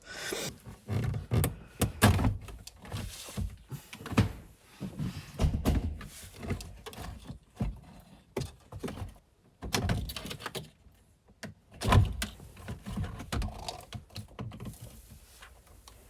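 Irregular knocks, taps and clicks of car interior plastic trim and parts being handled, with a few louder thunks about two, four and twelve seconds in.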